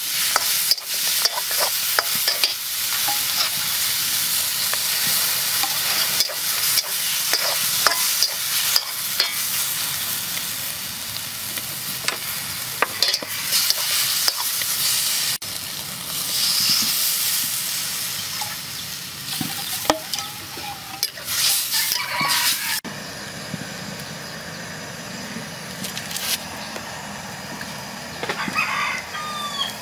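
Chicken pieces sizzling in hot oil in a wok, stirred and scraped with a metal spatula, with many sharp scraping clicks over the frying hiss. After a cut about two-thirds of the way in, the sound drops to a quieter, steady hiss of cooking.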